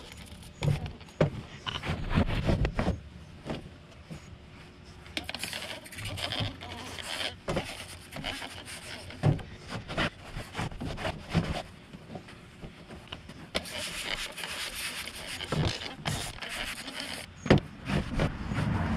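Hand trigger spray bottle spraying liquid onto a cotton T-shirt in repeated short sprays, among irregular clicks and rustling as the shirt is handled and smoothed.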